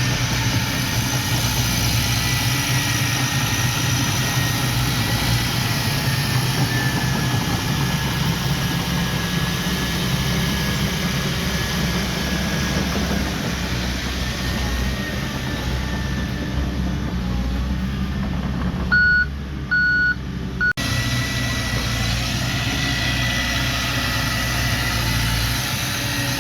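Heavy diesel machinery engine running steadily, with a faint high whine over it. Near the end, three short reversing-alarm beeps sound.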